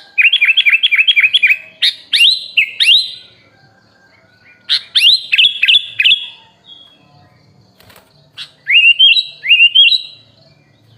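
Sooty-headed bulbul (kutilang) singing in four short bursts of quick, repeated chirps, with pauses between them.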